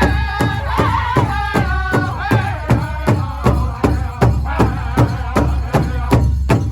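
Powwow drum group singing a men's traditional song: many voices in high-pitched unison over a big drum struck by several drummers together, about four beats a second. The singing is strongest over the first few seconds and thins later, while the drumbeat keeps going.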